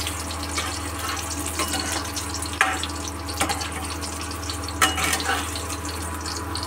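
Whole boiled potatoes sizzling and crackling as they fry in hot oil in a karahi, with a steel spatula turning them and knocking against the pan a couple of times.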